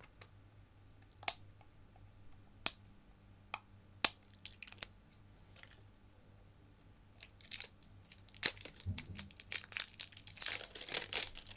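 Plastic packaging of a slime kit being handled and torn open: scattered sharp clicks and crackles a second or so apart, then a dense run of crinkling and tearing near the end.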